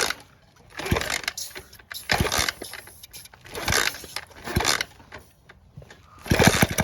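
Honda SL70 single-cylinder engine being kicked over with a makeshift kickstarter: a series of short mechanical clattering bursts, about one every second, as it turns over.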